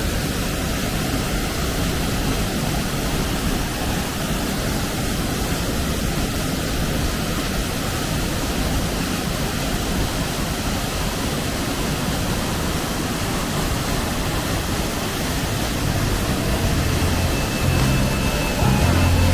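Steady rushing noise of a waterfall, water pouring and splashing without a break. Faint musical notes begin over it near the end.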